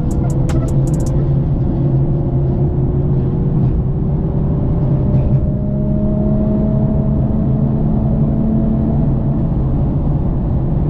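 Car driving along at speed: a steady low drone of engine and road noise, with tones that creep slowly upward in pitch as the car gently gains speed. A ticking music beat cuts out about a second in.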